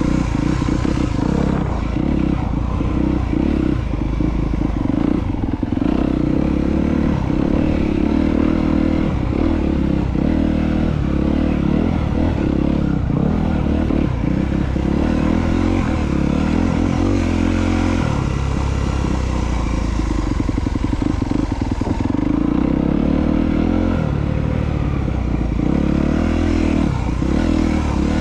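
Honda CRF250R dirt bike's single-cylinder four-stroke engine running under constantly changing throttle, the pitch rising and falling as it is ridden slowly over a tight trail.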